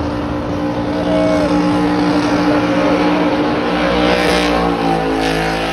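Car engine held at high revs during a burnout, its rear tyres spinning in heavy smoke; the engine's pitch holds steady, then dips a little about two-thirds of the way in.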